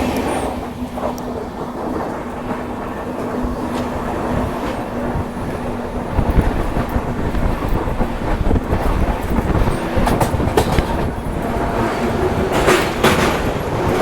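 Passenger train running on the track, a steady rumble with the wheels clacking over rail joints. A steady hum sounds over the rumble for the first six seconds or so, and a few sharp clacks come near the end.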